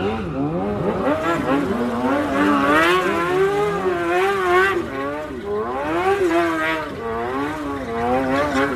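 Several dirt bike engines revving, their pitch rising and falling over and over as the riders blip the throttles.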